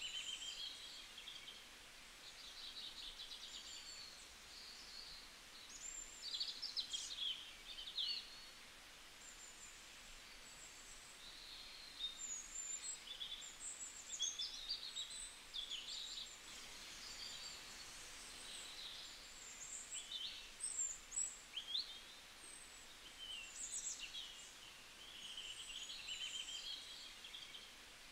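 Several birds chirping and trilling, short calls that rise and fall in pitch, over a faint steady hiss.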